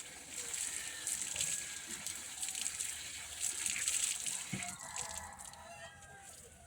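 Water running from an outdoor tap as hands are washed under it, the flow easing off about five seconds in. Chickens cluck faintly near the end.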